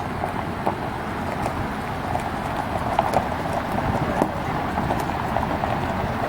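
Jeep-drawn tourist train, made up as a steam locomotive, rolling slowly by: a steady vehicle rumble with scattered clacks and rattles from the wagons.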